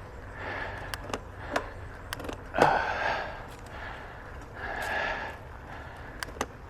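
A cyclist breathing hard while pedalling uphill, a heavy breath about every two seconds, with scattered sharp clicks and rattles from the bicycle.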